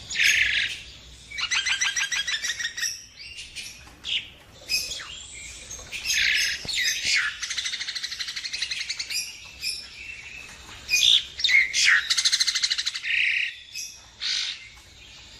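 Nias hill myna calling: a string of harsh calls broken by three longer bouts of rapid rattling trills, about a second and a half to three seconds each.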